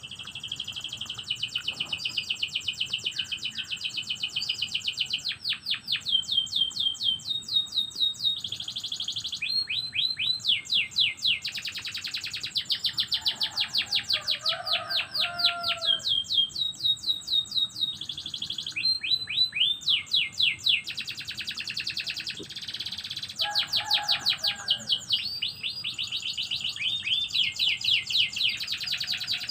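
Domestic canary singing a long, continuous song of fast trills and rolls, rapid repeated notes alternating with held and sweeping phrases. Fainter, lower notes come in briefly twice.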